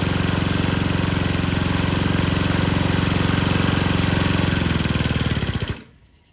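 Honda GCP160 single-cylinder overhead-cam lawnmower engine running steadily with ketchup in its crankcase in place of oil, then stopping abruptly near the end as it seizes and locks up.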